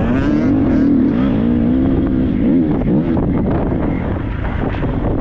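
Triumph 250 motocross bike's single-cylinder engine running hard, its pitch rising and falling over and over as the throttle is worked on and off.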